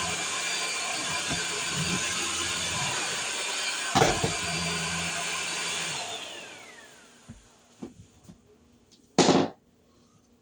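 Vacuum cleaner running steadily, with a knock about four seconds in. About six seconds in it is switched off and its motor whines down in pitch, then a few light clicks and one short loud thump come near the end.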